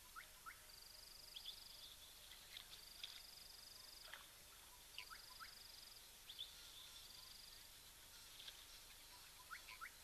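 Faint wild bird calls: short upward-sliding whistles, often in pairs, with a high rapid trill about a second long repeating every two seconds or so, over a steady hiss.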